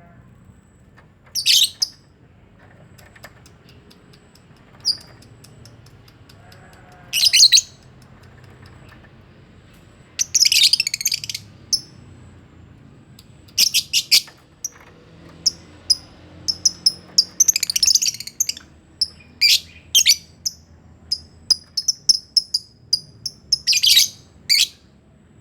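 A colony of lovebirds calling: scattered bursts of shrill chatter at first, then a quick run of short high chirps and screeches from about halfway on.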